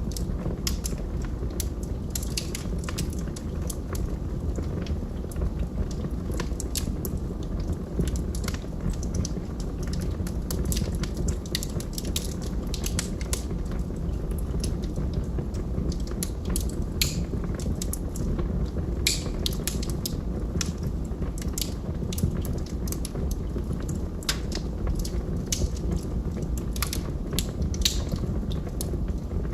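Log fire burning, with a steady low rumble of flames and irregular sharp crackles and pops from the burning wood.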